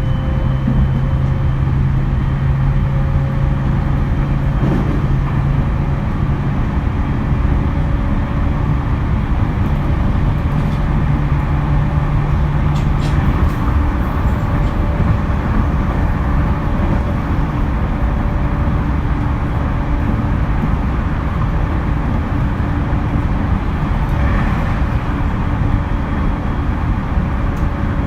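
E231 series electric commuter train running at speed: a steady rumble of wheels on rail with a low steady hum that stops about halfway through.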